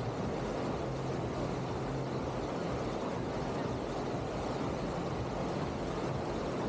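Steady rushing water of a surf machine's artificial wave, with a faint low hum underneath.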